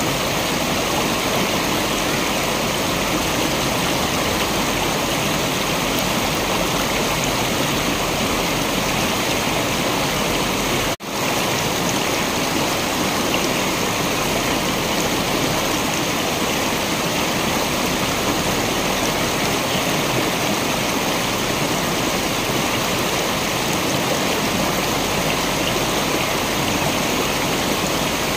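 Waterfall's rushing water, a steady, even roar of noise. About eleven seconds in there is one momentary gap in the sound.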